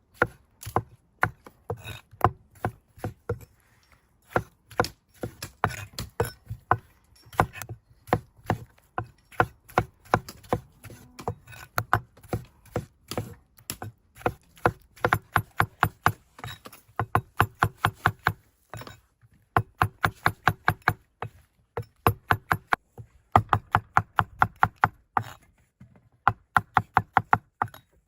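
A knife chopping food on a cutting board: quick, even strokes in runs of about four to five a second, with a few short pauses between runs.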